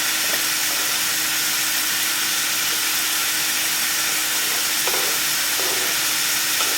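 Food frying in a hot pan, a steady sizzle, with a couple of faint light taps about five seconds in.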